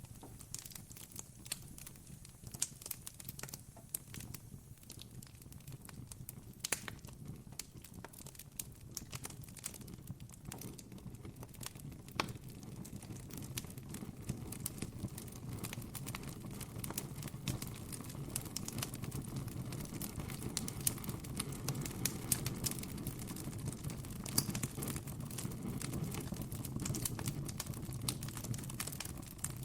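Campfire crackling, with many irregular sharp pops over a low rumble of burning wood that grows a little louder in the second half.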